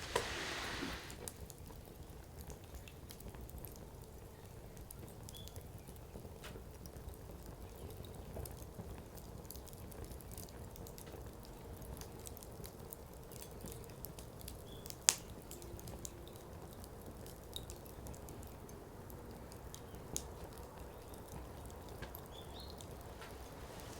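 Firewood burning in an open fire pit: a low steady rustle of flames with scattered small crackles, a brief hiss in the first second, and one sharp loud pop about fifteen seconds in.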